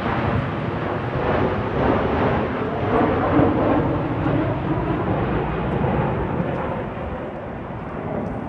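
Strong wind blowing on the microphone: a loud, rushing noise, heavy in the low range, that eases a little near the end.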